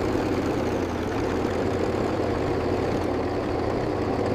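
A motor vehicle's engine running steadily: a low hum under a dense, rough rattle.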